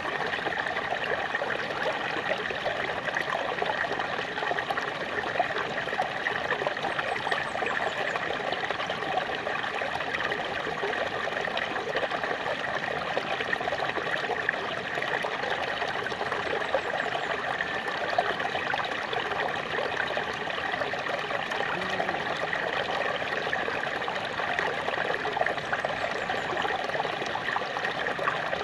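Small waterfall splashing and trickling steadily, a constant rush of falling water.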